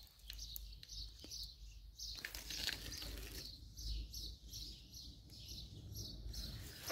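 Faint bird chirping, short high chirps repeated about three times a second, over a low rumble.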